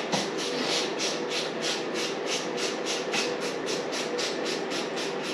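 Ratchet wrench clicking steadily, about four to five clicks a second, while a radiator bolt is backed out.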